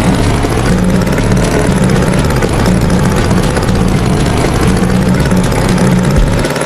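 Heavy engine running steadily with a low drone.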